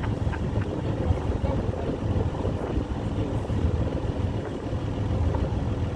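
Boat engine running steadily, a continuous low rumble with a faint steady hum above it, and wind buffeting the microphone.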